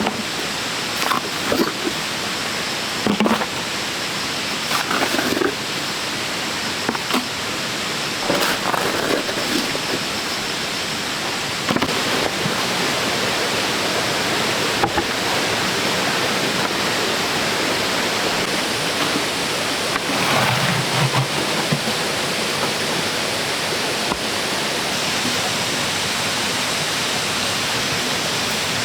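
Steady rushing noise with no pitch, with scattered light knocks and taps through the first half and a dull thump about twenty seconds in.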